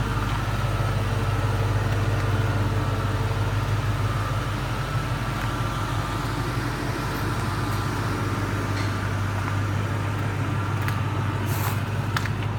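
Truck engine idling steadily, with a constant low hum.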